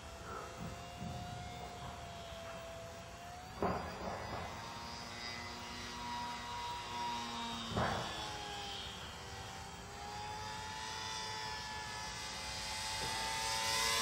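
RC Extra 330L aerobatic airplane's motor and propeller droning at a distance, its pitch drifting up and down with the throttle and growing louder near the end. Two brief knocks come about four and eight seconds in.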